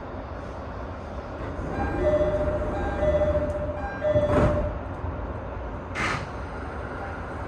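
Cab of an E217-series electric train standing at a platform: the stationary train's steady low hum, with a steady pitched tone sounding three times in a row about two to four and a half seconds in. Two short hisses come about four and six seconds in.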